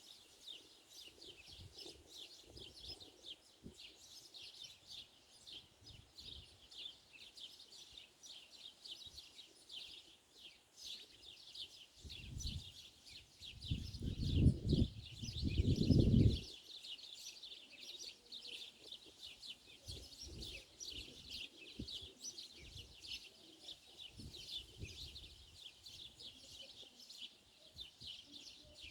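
Many small birds chirping continuously in a dense, high-pitched chorus. A low rumble swells up for about two seconds around the middle and is the loudest sound.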